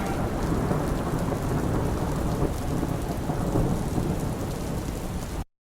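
Steady rain with a low rumble. It cuts off abruptly about five and a half seconds in.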